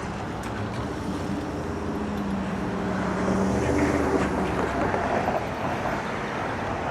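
Wind buffeting the microphone on a moving e-bike, over road traffic noise, with a passing vehicle's engine hum swelling and fading in the middle.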